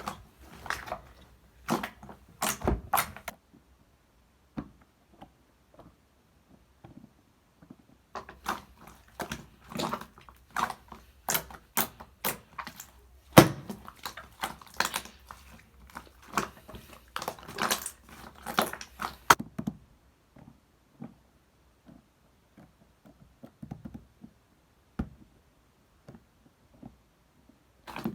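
Irregular clicks, taps and knocks of objects being handled, busiest in the first few seconds and again from about eight to nineteen seconds in, then only a few scattered taps.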